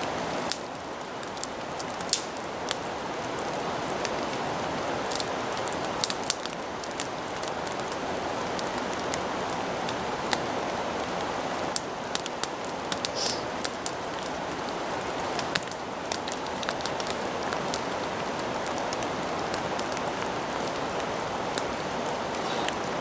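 Steady heavy rain falling, with scattered sharp pops and ticks.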